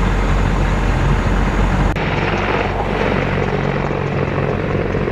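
AH-64 Apache helicopter running: steady rotor and turbine noise, with an abrupt change in its sound about two seconds in.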